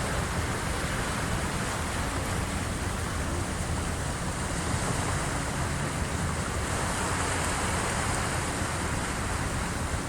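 Waves of the incoming tide washing against the shore, a steady rushing with no single breaks standing out.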